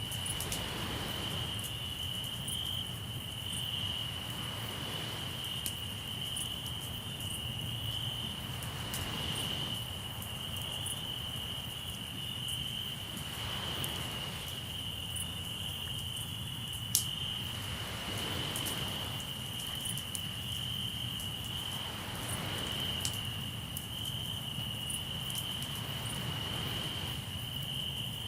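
Crickets trilling steadily on one high pitch, over sea waves washing in about every four to five seconds. Scattered sharp pops and crackles from a campfire, one louder pop about 17 seconds in.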